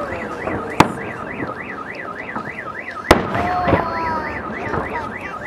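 Two fireworks shells bursting with sharp bangs, about a second in and about three seconds in, over a car alarm wailing up and down about three times a second.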